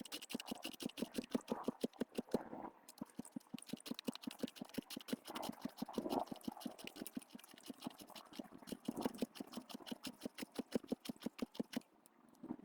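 Turning tool cutting a wooden blank spinning on a homemade wood lathe: a scraping cut with rapid, regular ticking as the blank comes round against the tool. It stops near the end.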